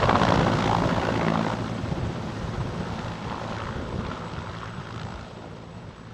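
Military helicopter flying past and away, its rotor and turbine sound fading steadily.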